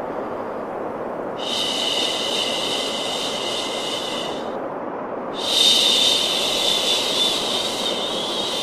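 Steady white noise for baby sleep, with a long drawn-out "shhh" shushing sound laid over it in repeated stretches of about three seconds: one begins about a second and a half in, and another about five seconds in.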